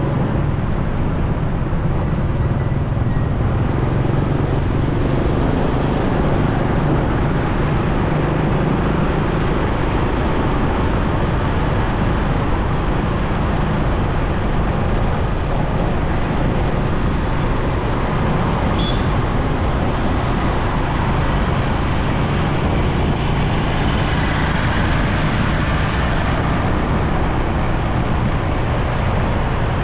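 Steady road noise of a motorcycle ride: wind rushing over the microphone over the motorcycle's running engine and surrounding traffic, with no clear change.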